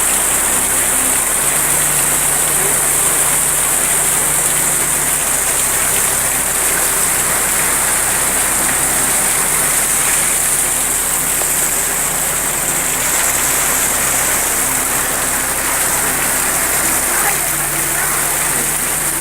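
Rain falling steadily, a constant hiss of water, with the water coming in through a leaking roof.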